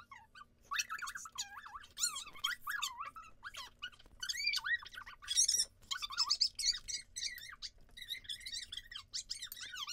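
Slime mixture of glue and colouring being stirred, giving a run of short, high, wet squeaks that bend up and down in irregular clusters.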